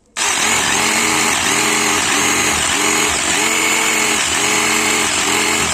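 A motorised power tool running loudly and steadily, its pitch dipping and recovering in an even rhythm about twice a second. It starts abruptly just after the beginning.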